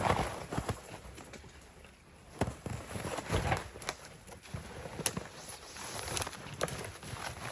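Footsteps in deep snow, irregular crunching steps with a short lull about two seconds in.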